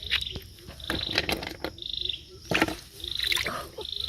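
Frogs calling after rain: short, high, pulsed trills repeating every second or so, with a few sharp knocks from the fisherman's work in the water.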